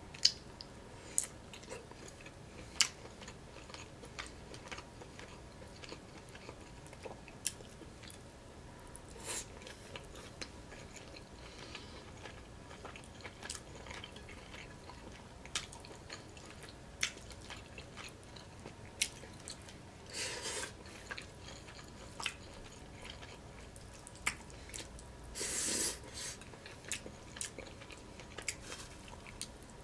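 Close-miked chewing and soft mouth sounds of someone eating chicken and rice with her fingers: scattered small clicks and smacks, with a few longer, louder ones about nine, twenty and twenty-five seconds in.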